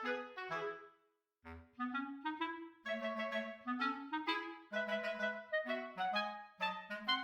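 Background music: a tune of short, separate notes carried by a woodwind, stopping briefly about a second in and then starting again.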